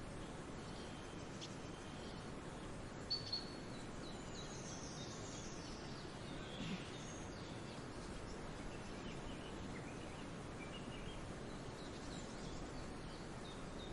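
Steady outdoor background hiss with faint, scattered bird chirps, including two sharp chirps about three seconds in and a falling call shortly after.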